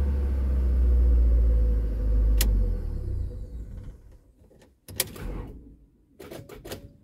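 Car engine running with a low rumble that fades away about three to four seconds in, followed by a few sharp clicks and knocks.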